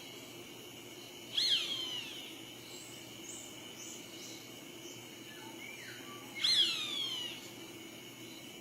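A bird calling twice, about five seconds apart. Each call is loud and about a second long, falling in pitch. Faint short chirps come between the calls over a steady high-pitched background tone.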